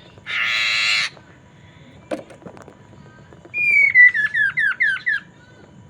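Poksay Mandarin (black-throated laughingthrush) singing: a loud harsh rasping note, a short sharp call, then a clear whistle running into a quick series of about six down-slurred whistled notes.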